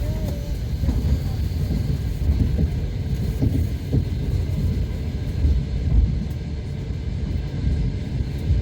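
Passenger train running on rails, heard from inside the carriage: a steady low rumble from the wheels and running gear, with irregular knocks.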